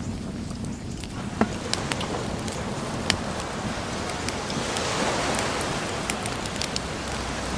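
Wood bonfire crackling with scattered sharp pops over a steady wash of sea waves, one wave swelling up and falling away about halfway through.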